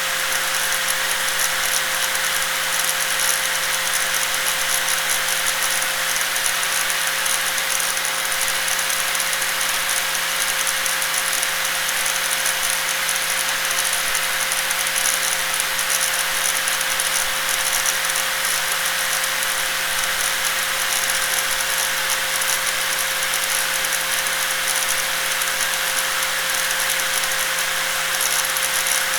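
Electric angle grinder running steadily at constant speed, a continuous whine with a dense hiss above it.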